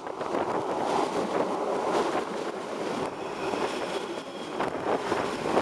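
8520-class DART electric multiple unit passing close on the track: a steady rumble of wheels on rail, with a faint high whine joining about halfway through.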